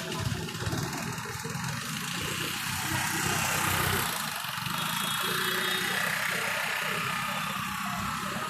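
Road traffic noise, with a vehicle engine running close by under a steady hiss.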